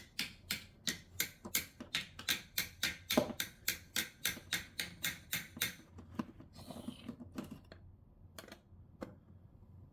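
Ratcheting screwdriver clicking steadily as a screw is turned, at about four clicks a second. The clicks thin out and grow fainter after about six seconds.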